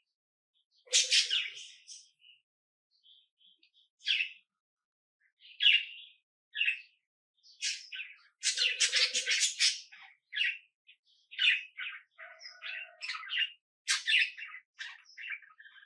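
Small birds chirping: short, high-pitched calls with quiet gaps between them, becoming a dense flurry of calls about nine seconds in, then continuing in quick runs.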